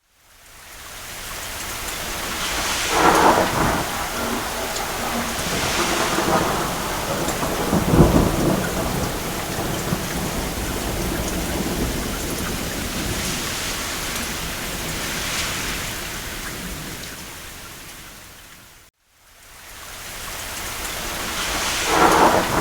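Steady rain falling on a cabin roof with distant thunder rolling in several times, the deepest and loudest rumble about a third of the way in. The whole sound fades out to a moment of silence at the start and again near the end, then fades back in.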